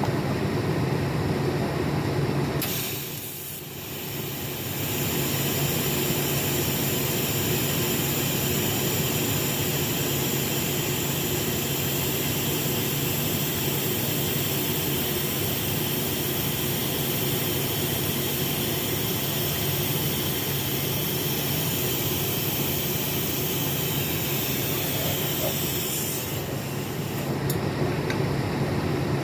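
TIG welding arc on a stainless steel tube: a steady high hiss that starts about three seconds in and cuts off a few seconds before the end, over a constant low background hum.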